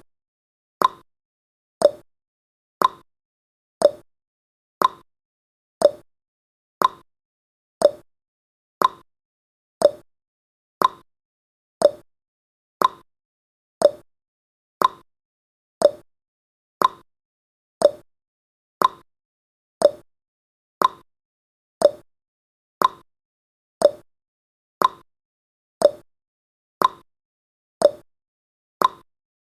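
Countdown timer's tick sound effect: a short, sharp tick once a second, evenly paced, marking off each second of the countdown.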